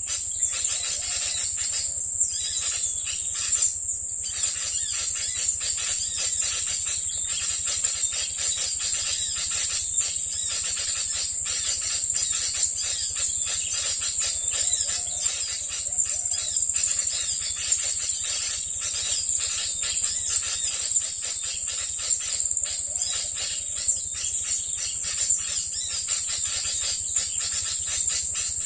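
Small birds chirping rapidly and densely, from an MP3 bird-call lure recording used to trap small birds, over a steady high-pitched buzz.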